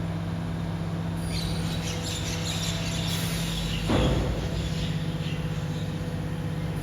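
BYD garbage truck's compactor working: a steady low hum of the hydraulics, with high squeaks for a couple of seconds and a sudden thump about four seconds in as the load is crushed.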